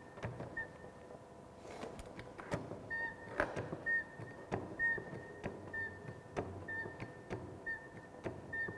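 Hand-pumped hydraulic pipe bender being worked to bend a galvanized pipe. A short squeak comes about every two-thirds of a second, along with clicks and knocks, as the pump handle goes up and down.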